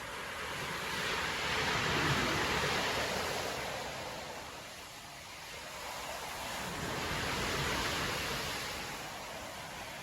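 Storm surf: waves breaking and washing up the beach. The rush of water swells and fades twice, cresting about two seconds in and again near the eighth second.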